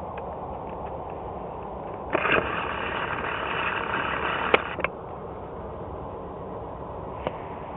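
Steady engine noise from an Airbus A330-243F cargo jet. About two seconds in, a louder burst of noise starts abruptly, lasts nearly three seconds and ends with two sharp clicks; another single click comes near the end.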